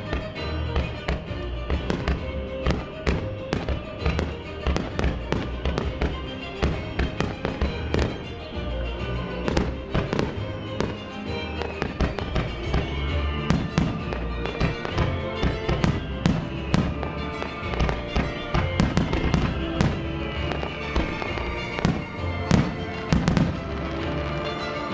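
Aerial firework shells bursting in rapid, irregular succession, with many sharp bangs and crackles, over music played through the venue's loudspeakers. Several descending whistling glides run through the middle of the barrage.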